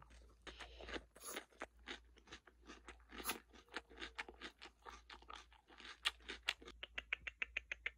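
A person chewing raw kohlrabi: a long string of crisp crunches, coming faster and more evenly near the end.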